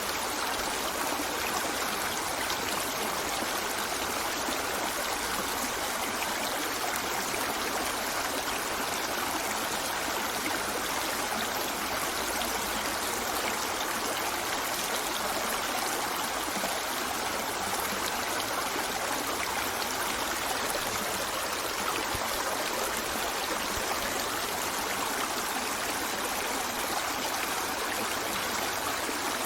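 A river flowing steadily over rocks, an even rushing and trickling of water with no change in level.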